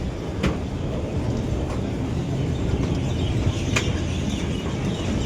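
Small park ride-on train running: a steady low rumble with a couple of sharp clicks.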